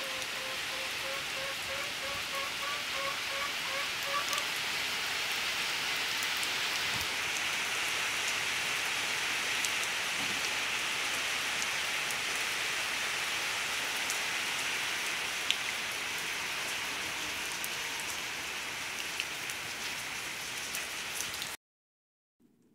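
Steady rain falling on the yard and roofs, a constant hiss that cuts off suddenly near the end. Over the first few seconds a short call repeats about three times a second under the rain.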